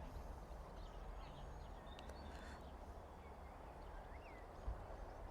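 Faint outdoor ambience: a few short bird chirps over a low steady rumble, with one brief low thump near the end.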